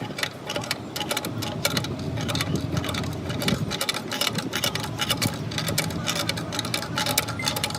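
Rapid, irregular clicking and tapping over a steady mechanical hum.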